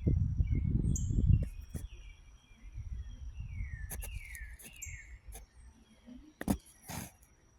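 Small birds chirping: a run of short, falling chirps, over a low rumble in the first second and a half. Two sharp clicks come near the end.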